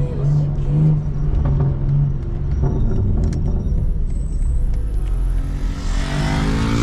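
Straight-piped BMW M4 Competition's twin-turbo inline-six running at light throttle, heard from inside the car as a steady low exhaust drone that swells louder near the end.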